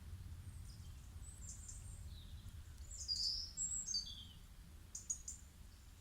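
Small songbirds chirping in a forest over a low steady rumble: a few chirps about a second and a half in, a louder run of falling chirps around three to four seconds, and short chirps near five seconds.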